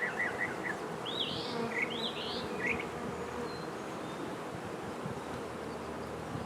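Honey bees buzzing steadily around an open hive as its frames are inspected. A few short high chirps sound over the hum between about one and three seconds in.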